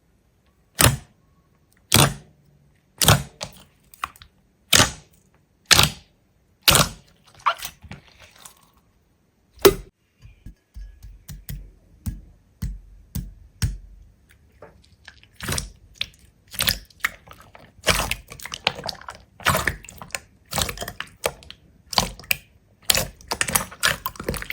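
A series of sharp knocks, about one a second for the first seven seconds, then a single hard knock, followed by quicker, lighter clicks and crackles that grow busier near the end.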